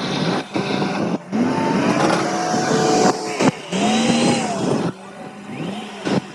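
Machine engine revving up and down over and over, its pitch arching up and falling back about once a second, with a few brief sudden breaks.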